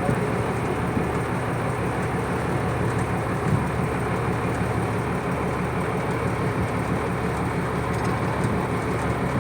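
Purse seine fishing boat's engine running steadily, a constant low rumble.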